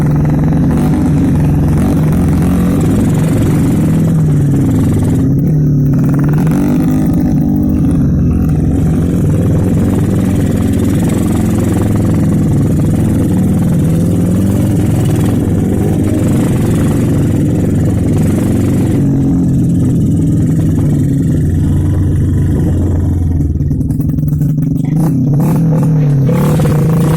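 Motorcycle engine running under way, its pitch rising and falling with the throttle, with a brief dip in level about three-quarters of the way through.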